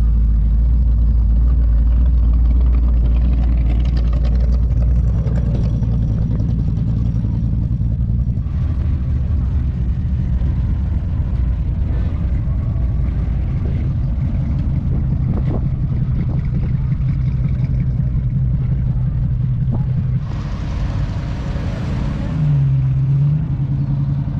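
Engines of classic cars running at low speed as they roll past one after another, a steady low rumble. A short hiss comes about twenty seconds in, and the engine note dips and rises briefly near the end.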